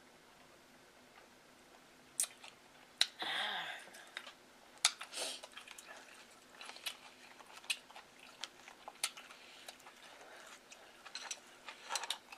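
Close-miked eating sounds: scattered sharp wet clicks and lip smacks of chewing, with a short breathy sound about three seconds in.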